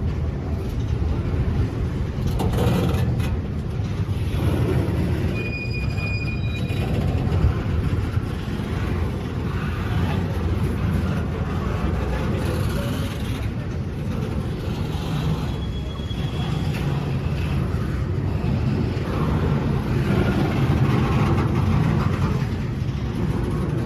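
Train passing with a steady rumble of cars on the rails. There is a brief high wheel squeal about five seconds in and a fainter one around sixteen seconds.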